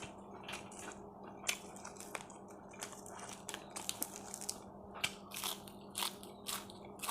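Close-up mouth sounds of someone eating nam tok moo (grilled-pork salad) with sticky rice: irregular short chewing clicks and smacks, growing more frequent in the second half, over a faint steady hum.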